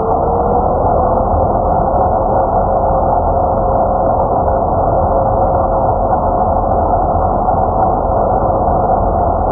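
Black & Decker 20-volt cordless electric chainsaw running steadily at a single speed, a steady motor whine that settles to pitch in the first moment over a dull, muffled running noise.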